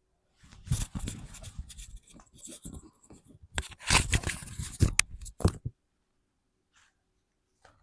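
Close handling noises: rustling, scraping and crinkling of things being handled, loudest about four to five and a half seconds in, then quiet.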